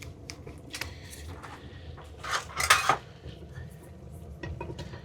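A utensil clinking and scraping in a cooking pot as a stew is stirred, with scattered light clinks and a louder scraping clatter a little past halfway.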